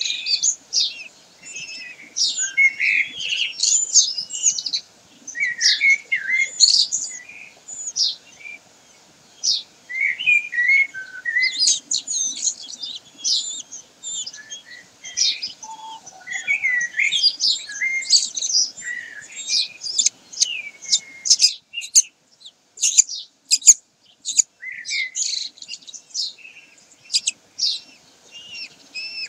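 Birds chirping and twittering: many short, high, overlapping calls throughout, thinning to sparser sharp chips for a few seconds after the middle.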